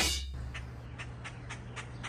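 A loud sudden noise dies away in the first moment, followed by a steady series of short, high chirps, about four a second.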